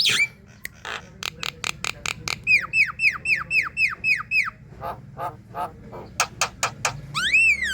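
Javan myna singing a varied, chattering song: rapid sharp clicks and harsh notes, then a run of about eight quick downward-sliding whistles in the middle, and a longer rising-then-falling whistle near the end.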